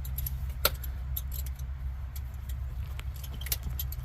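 Irregular sharp metallic clicks and clinks over a steady low engine drone.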